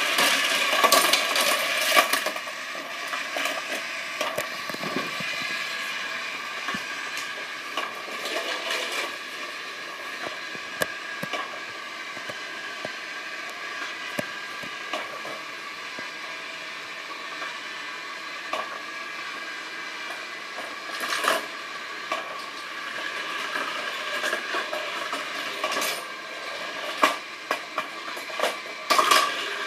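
Small diecast toy cars rolling and clattering through a plastic playset, with many sharp clicks and knocks, over a steady mechanical whir. The clatter is busiest at the start, briefly again about two-thirds of the way through, and near the end.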